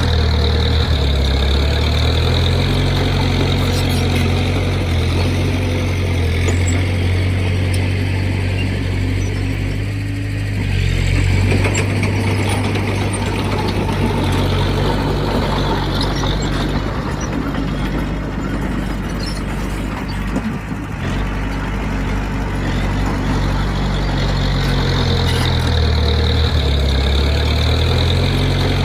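Heavy diesel engine of earthmoving equipment running loudly, its note dipping and rising again a few times as the throttle and load change.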